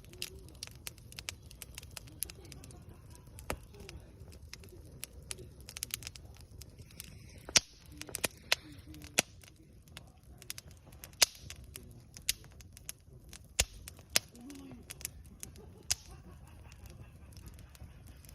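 Wood campfire crackling: a steady scatter of small pops and snaps over a low rumble of the flames, with a few sharper, louder snaps about eight, eleven and fourteen seconds in.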